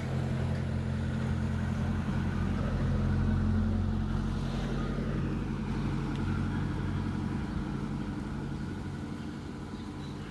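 A motor vehicle's engine running at a steady low pitch, growing louder until about three seconds in and then slowly fading away as it passes.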